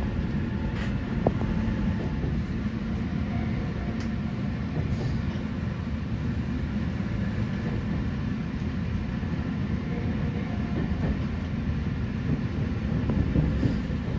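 Electric train running along the track: a steady low rumble of wheels on rails, with a few light clicks.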